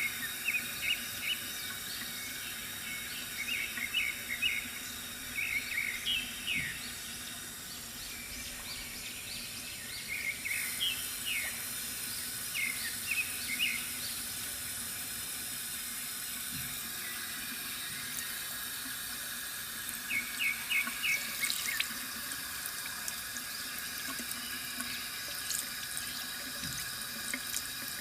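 Water from a bamboo fountain running steadily, with small birds chirping in short, quick bursts every few seconds.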